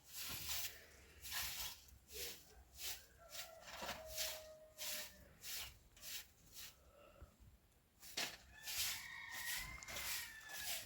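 Repeated rough scraping strokes, about two a second, from a trowel working cement.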